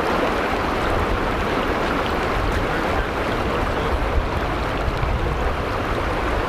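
Argun mountain river rushing: a steady, full rush of fast-flowing water.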